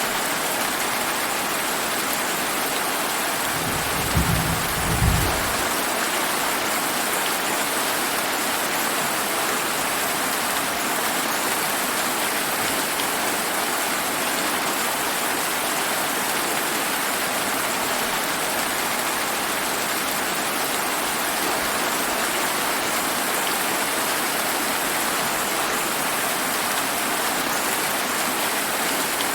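Steady rain hissing. About four seconds in, a short low rumble of thunder rolls through in two pulses.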